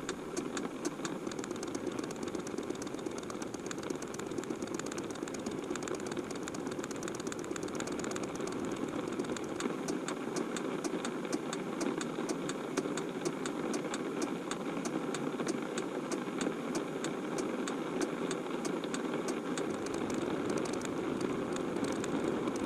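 Steady car cabin noise of a running car, a low engine and road hum, with rain ticking rapidly and continuously on the roof and windshield.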